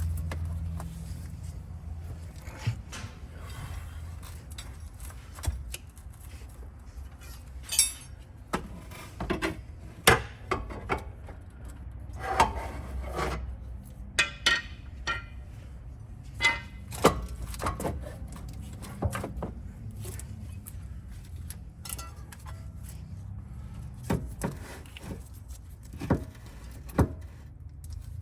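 Hand tools and metal suspension parts clinking and knocking at irregular intervals, with a few short quick runs of clicks, over a low steady hum.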